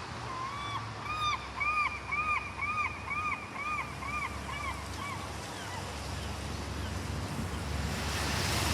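Seagull giving a fast series of about nine calls, each a short rise and fall in pitch, over about four seconds, the laughing series typical of gulls.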